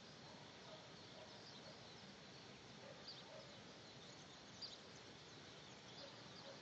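Near silence: faint outdoor background hiss with small birds chirping in the distance, one chirp a little louder about four and a half seconds in.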